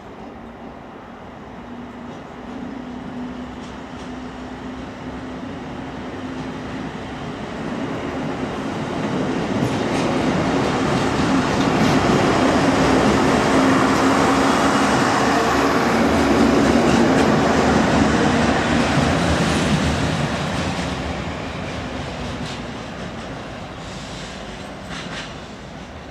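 A regional passenger train passing, its engine hum and wheel noise swelling to a peak in the middle and then fading as it moves away, with the clack of wheels over rail joints.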